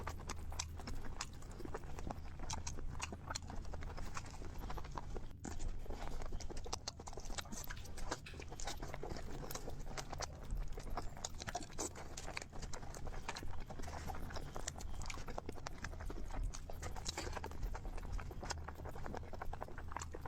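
A small pet animal nibbling and chewing a snack: a dense run of quick, irregular clicks and crunches, over a steady low hum.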